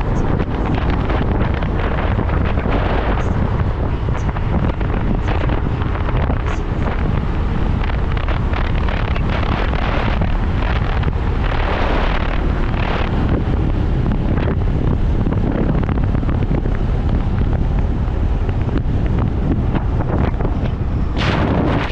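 Steady wind rushing over the microphone of a moving motorcycle, with the bike's engine and road noise underneath.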